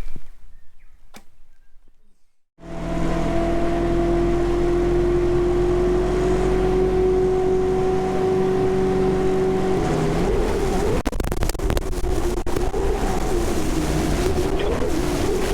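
A vehicle engine starts being heard abruptly about two and a half seconds in and runs as a steady drone that slowly rises in pitch. In the last few seconds the pitch wavers up and down.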